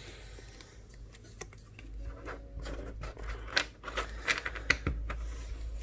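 Trading cards being handled and slid against one another: a run of light clicks and scrapes, most between about one and a half and five seconds in.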